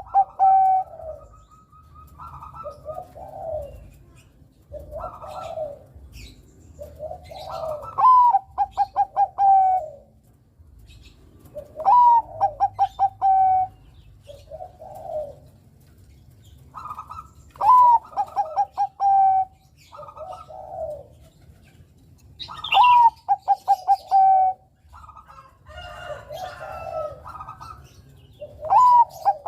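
A male zebra dove (perkutut) of the Bangkok line cooing its song. A loud phrase comes about every five seconds, each a rising note followed by a quick run of short clipped notes, with softer, lower coos in between.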